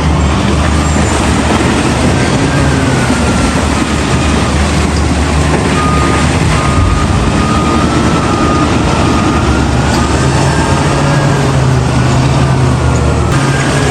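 Heavy diesel engine of quarry earthmoving machinery running steadily under load. A reversing alarm beeps repeatedly about halfway through.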